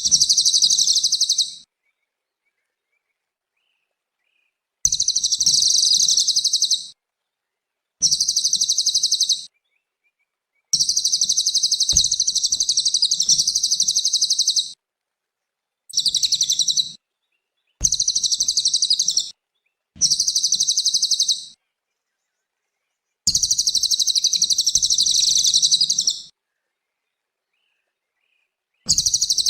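Cililin bird singing in high, fast trilled phrases of one to four seconds each, about nine of them, broken by gaps of complete silence.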